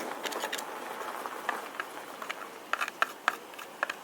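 Scraping and irregular clicking of a tool working packed sawdust out from under the side cover of an Echo CS306 chainsaw, with a few sharper clicks in the second half.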